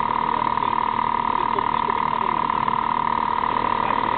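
A small motorcycle's engine running at a steady pitch, holding an even speed, with faint voices in the background.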